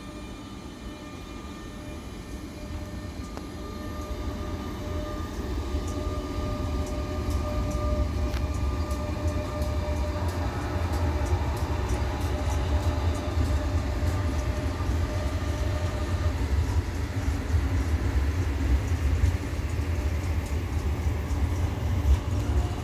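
Renfe Cercanías electric multiple-unit train pulling away from the platform: a low rumble of wheels on rail under an electric motor whine, growing steadily louder as it gathers speed, with the whine starting to rise in pitch near the end.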